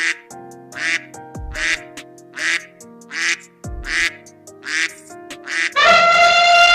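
A harsh animal call repeated eight times, about one every 0.8 s, over background music. Near the end a loud held tone takes over and slides down in pitch.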